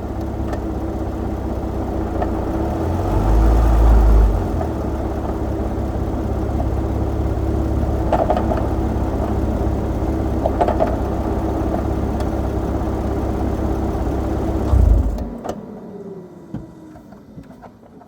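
Nissan 370Z's 3.7-litre V6 running steadily with a constant whine, swelling briefly about three to four seconds in. About fifteen seconds in it shuts off and the sound falls away, with whines sliding down in pitch as the car winds down.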